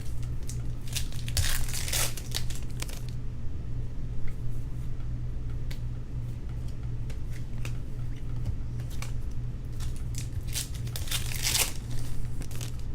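Trading-card pack wrappers crinkling and tearing, in two bursts, about a second in and again near the end, with light clicks between, over a steady low hum.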